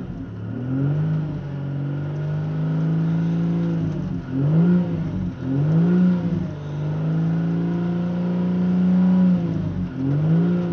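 2012 Mazda CX-9's 3.7-litre V6 petrol engine revved in Park, heard from inside the cabin. It holds steady at around 3,000 rpm for a few seconds at a time, with quick blips of the throttle rising and falling in between.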